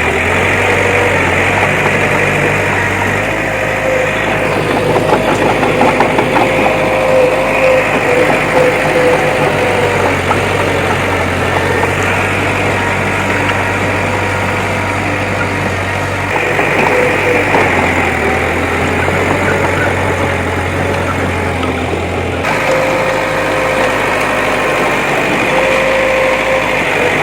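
Heavy earthmoving machinery, most likely the bulldozer, with its engine running steadily and loudly. The tone changes abruptly twice, about 16 and 22 seconds in.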